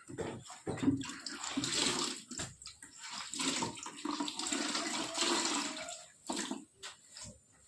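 Water splashing and sloshing in uneven bursts, with knocks scattered through it.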